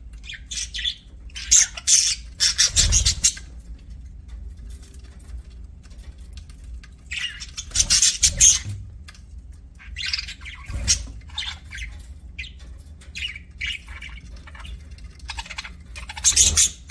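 Budgerigars chirping and chattering in bursts of rapid high-pitched calls, with louder squawky flurries a couple of seconds in, about halfway through and near the end.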